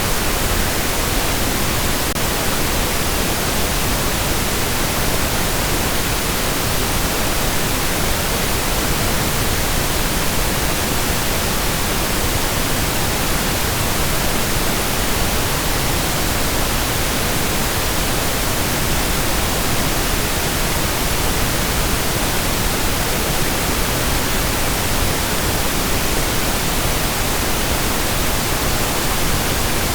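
Steady synthetic pink noise: an even, unchanging hiss spread across all pitches, with no breaks or events.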